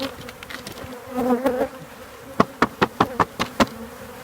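Honeybees buzzing in numbers at the entrance of a hive box, with bees fanning, the signal that the queen is inside. A quick run of about seven sharp taps comes in the middle.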